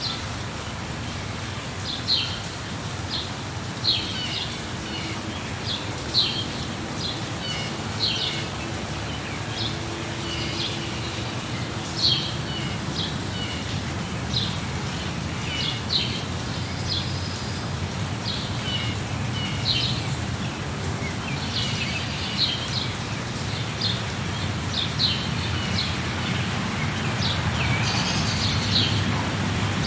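Small birds chirping, short high calls repeated every second or two, over a steady low background noise.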